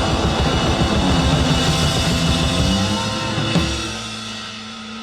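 Live rock band playing with drum kit, bass and guitar, the music thinning and dying away in the last second or so as the song winds down.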